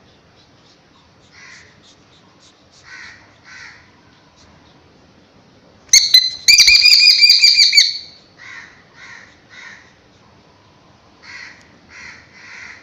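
A bird calling: soft short calls in twos and threes, broken about six seconds in by a loud, harsh call with a rapid rattle that lasts about two seconds, then more soft calls.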